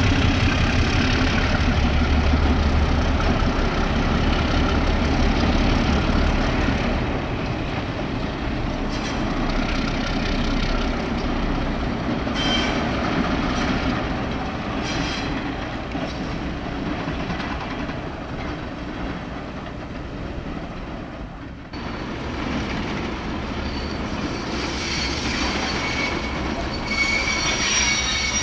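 Freight train moving through a rail yard: a diesel locomotive's low engine rumble and rolling cars at first. After a sudden cut about 22 seconds in, wheels squeal high-pitched near the end.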